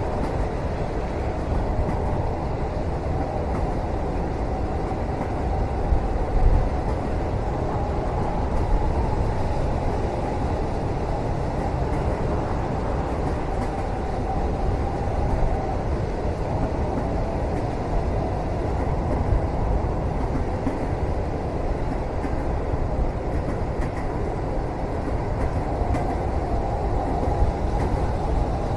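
Steady low rumble of a moving train heard from inside a carriage cabin, with a brief louder knock about six seconds in.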